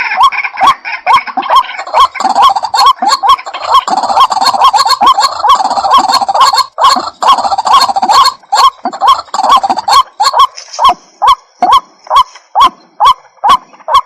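White-breasted waterhen (ruak-ruak) calling loudly in rapid repeated notes, about two to three a second. The notes are denser and overlapping in the first half, then evenly spaced.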